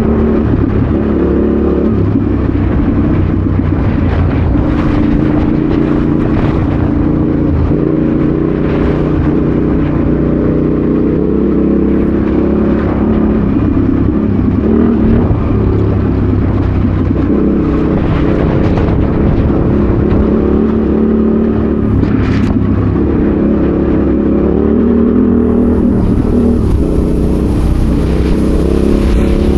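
Adventure motorcycle engine running steadily under load while riding off-road, its pitch rising and falling with the throttle, with a few brief knocks.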